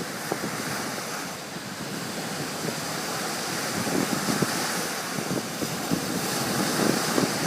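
Strong wind buffeting the microphone over rough lake water, with waves breaking and splashing in a steady churning rush.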